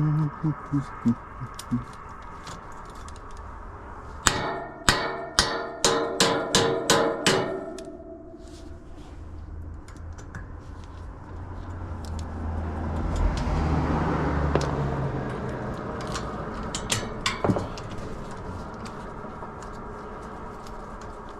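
About eight metal hammer blows in quick succession, each ringing, while working on an air-conditioner condenser fan motor. Later a low rumble swells and fades, and a few sharp clicks follow near the end.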